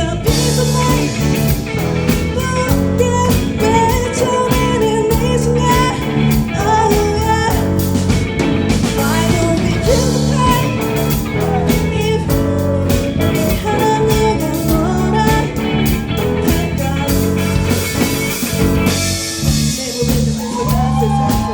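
A live rock band playing a sung song: a singer's melody over electric guitar, bass and a drum kit keeping a steady beat.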